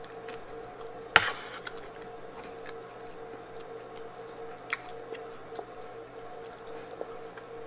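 Close-up eating sounds of a person chewing chana masala and fried flatbread. A sharp click about a second in and a few fainter clicks later, over a steady low hum.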